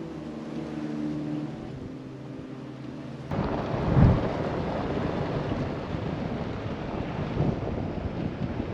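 Soft background music with held notes, then about three seconds in a sudden cut to strong wind buffeting the microphone, gusting hardest a second later and going on in rough surges.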